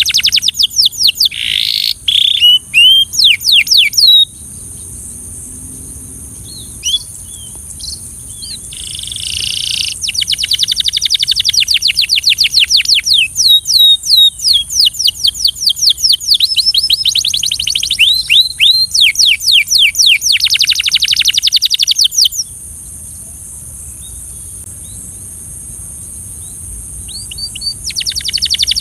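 Canary singing in fast trills of rapidly repeated high chirps, in long phrases with pauses of several seconds between them. A faint steady high hiss runs underneath.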